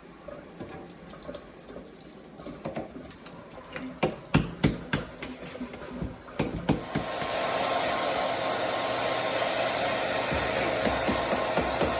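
A few sharp knocks and clatters, then about seven seconds in a blow dryer switches on and runs steadily.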